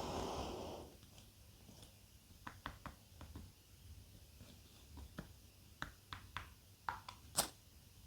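Close-miked eating sounds: a short breathy rush at the start, then scattered sharp crunches and clicks of chewing, the loudest about seven seconds in.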